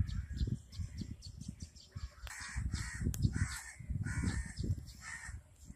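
A bird calling repeatedly: a series of short calls starting about two seconds in, over a low rumble on the microphone.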